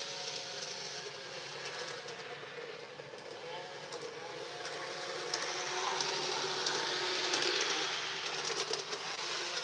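G-scale garden railroad model train running along its track: a steady rolling and motor sound with faint clicks, growing louder about halfway through.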